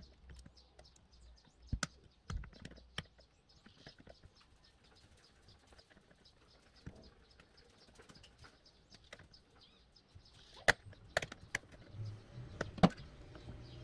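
Scattered light clicks and knocks of hand work on a metal keg while a charging-port connector is fitted and screwed tight into its hole, with a few sharper clicks about two seconds in and again near the end.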